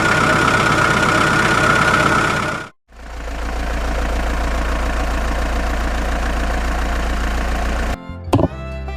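An engine running steadily, with a strong whine in its sound, cuts off abruptly about three seconds in. A deeper engine sound then runs steadily at idle, with a low rumble.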